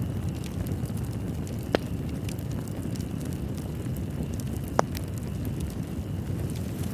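Wood fire crackling in a fireplace over a steady low roar, with many small clicks and two sharper pops, one about two seconds in and one near five seconds.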